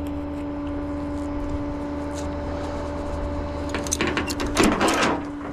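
Steady hum of a running vehicle or machine, with a burst of loud metallic clattering and rattling about four seconds in.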